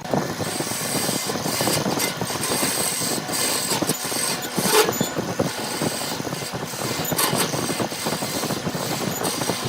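A woodworking power tool cutting or shaping wood, a steady rasping noise with many small scrapes and a faint high whine.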